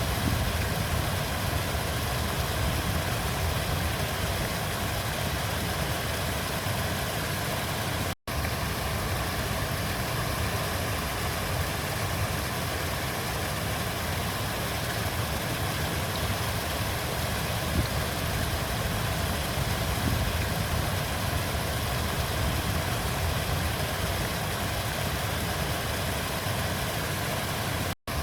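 River water flowing, a steady rushing noise heaviest at the low end. The sound drops out for an instant twice, about eight seconds in and near the end.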